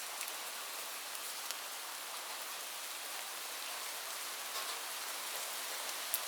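Steady rain falling, an even hiss with scattered sharp ticks of individual drops hitting a surface, a few louder ones near the end.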